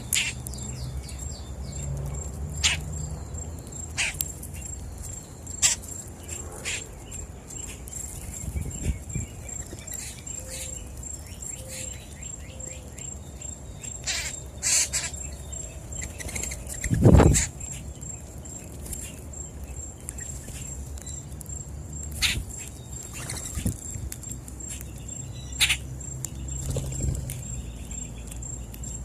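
Wild birds chirping and calling in short, sharp notes scattered throughout, over a steady thin high tone. One louder low thump comes a little past the middle.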